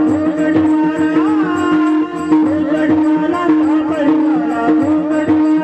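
Marathi folk-devotional (gavlan) music: a held drone note under a bending melody line, with steady hand-drum beats.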